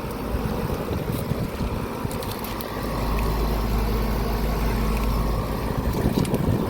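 Outdoor air conditioner condensing units running in cool mode: a steady fan and compressor hum. A deeper low rumble comes in about three seconds in and drops out a couple of seconds later.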